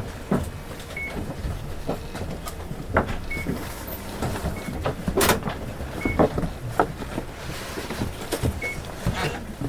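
Isuzu Erga city bus idling at a stop with its doors open. Its low engine rumble runs under scattered knocks and thumps from the cabin, and short high beeps sound about five times, as from the fare-card reader.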